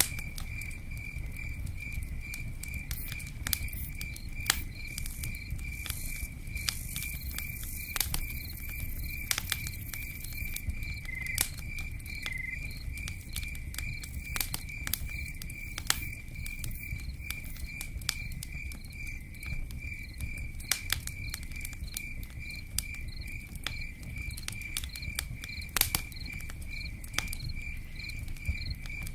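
Cricket chirping in a steady, even pulse, over a low rumble with scattered sharp pops and ticks from a crackling campfire and pattering raindrops.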